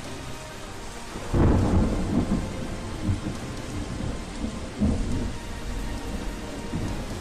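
Steady rain-like hiss, with deep rumbles swelling about a second and a half in and again near five seconds.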